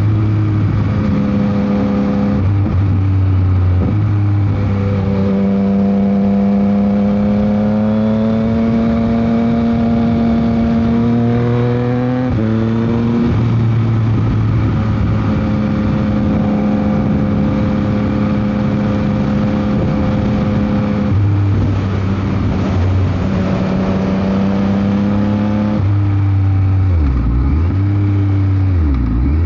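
Yamaha MT-09 SP's three-cylinder engine running through a Dominator GP aftermarket exhaust at steady cruising revs. The engine note steps to a new pitch several times, and near the end the revs dip and recover twice in quick succession. Heavy wind noise runs underneath.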